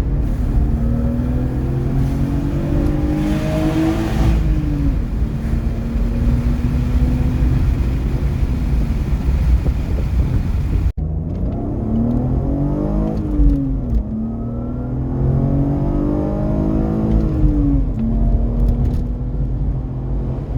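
BMW E36 323ti Compact's 2.5-litre inline-six, breathing through a debaffled airbox, accelerating hard: the revs climb and drop back at each upshift, two runs spliced with an abrupt cut about halfway.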